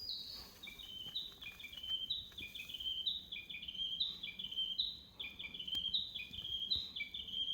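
A small songbird singing a continuous song of quick, short, high notes. Each phrase starts on a high note and steps down, and the phrases repeat roughly once a second.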